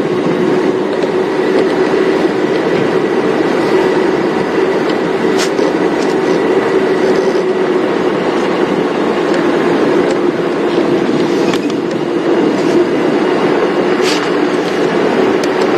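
Safari game-drive vehicle driving along a dirt track: a steady engine and road drone with a few sharp knocks and rattles from the body.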